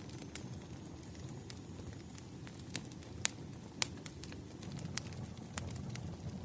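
Crackling wood fire: a low, steady rumble of flames with irregular sharp pops and snaps, the loudest two a little past the middle.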